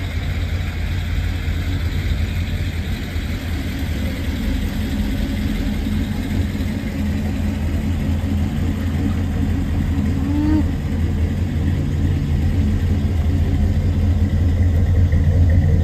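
Car engine and road noise heard from inside the cabin while driving: a steady low drone that grows slightly louder near the end.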